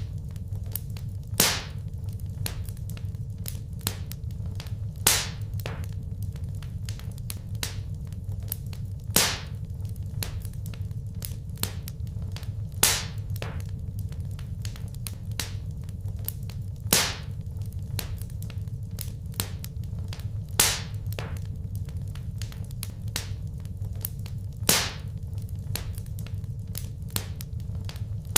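Wood fire crackling in a fireplace: many small snaps over a low steady rumble, with a louder pop about every four seconds.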